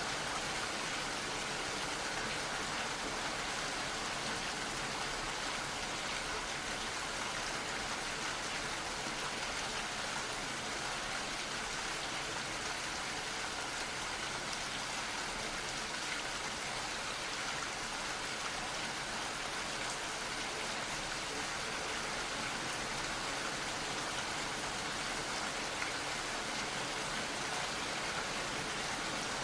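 Gentle, steady rain falling, an even hiss of drops with no change in intensity.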